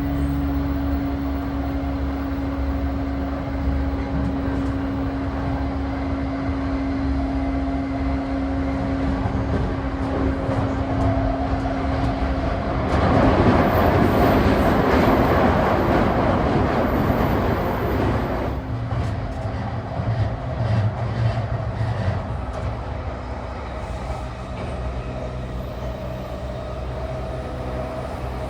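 Running noise heard inside a JR East E235-1000 series electric train car, moving at line speed, with a steady hum and one held tone. About halfway in, a louder, even rush of noise swells for about five seconds, then the running noise settles lower.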